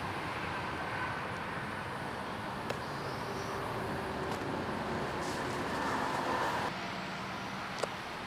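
Steady outdoor background noise, like distant road traffic, with a few faint clicks.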